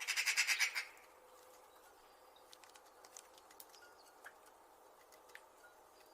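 A magpie's harsh rattling chatter: a quick run of pulsed notes lasting under a second at the start, followed by faint scattered clicks and ticks over a low steady background hiss.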